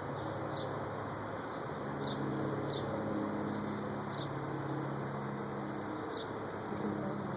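A small bird calling: five short, high chirps that each drop in pitch, spaced irregularly, over a steady low hum.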